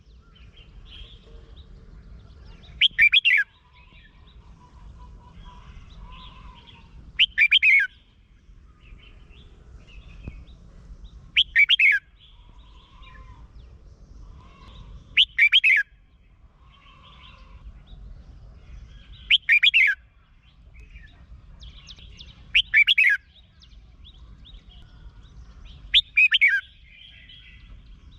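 Red-whiskered bulbul singing: a short, loud song phrase repeated about every four seconds, seven times, with fainter chirps between the phrases and a low hum in the background.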